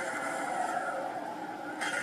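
U-Haul truck's engine running with a steady drone while the truck is stuck, and a short burst of hiss near the end.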